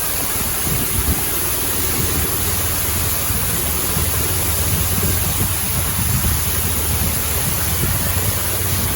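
Loud, steady rush of a waterfall's falling water, with a deep rumble underneath.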